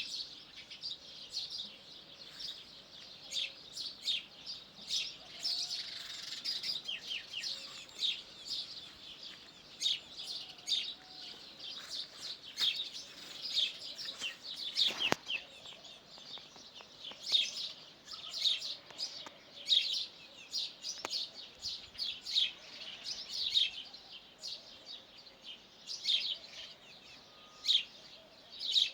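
Small birds chirping, many short high calls overlapping without pause, with a single sharp knock about fifteen seconds in.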